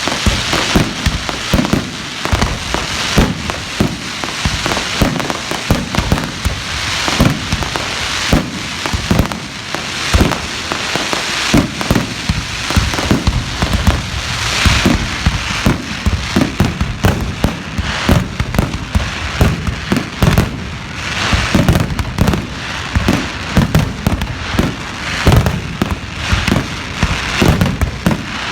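Fireworks display: a rapid, continuous barrage of bangs and booms with crackling between them.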